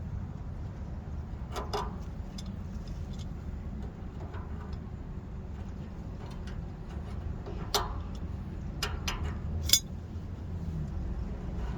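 A few sharp metallic clinks and taps of hand tools and hub parts being handled while a boat trailer wheel hub is taken apart, over a steady low rumble. The loudest clink comes near the end.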